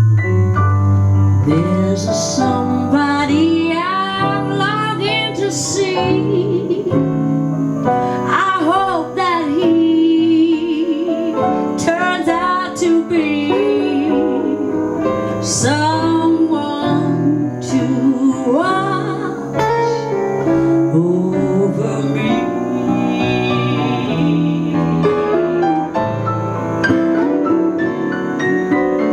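Female vocalist singing a jazz-blues song over piano accompaniment. The piano plays alone for the first couple of seconds before the voice comes in, and the held sung notes waver with vibrato.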